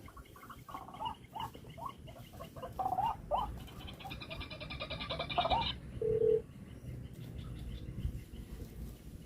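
White-breasted waterhen calls: a run of short repeated notes, then a loud, fast rattling stretch about four seconds in.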